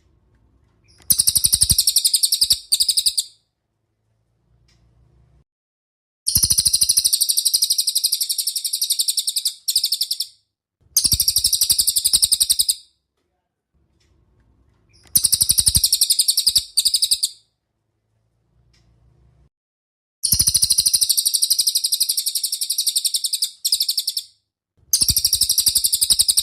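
Recorded songbird song: very fast, high, buzzy trills in bursts of one to about four seconds, repeated again and again with short pauses between, played as a masteran tutor song for caged songbirds.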